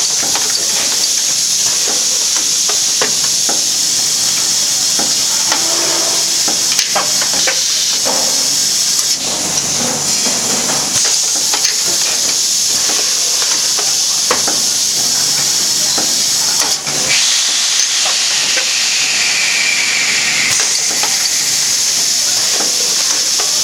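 Automatic vacuum packing machine running: a loud, steady hiss of air throughout, with scattered clicks and knocks from the mechanism.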